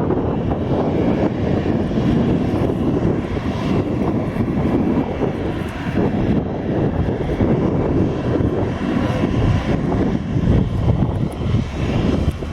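Airliner engines running, a loud steady rumble.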